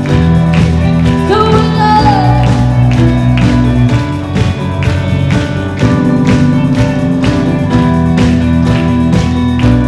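Live worship band playing a full-band song with drums, bass, guitar and a steady beat, with a brief sung line about a second in.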